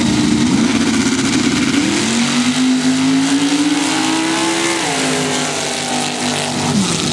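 Sand drag racing engine at full throttle. Its pitch wavers at first, climbs steadily for about three seconds, drops about five seconds in, then holds lower before falling away near the end.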